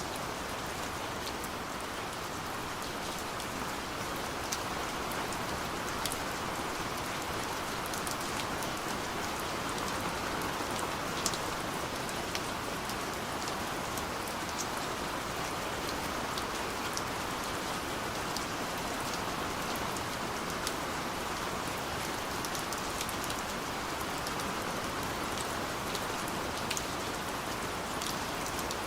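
Steady light rain falling, an even hiss with individual drops ticking sharply here and there.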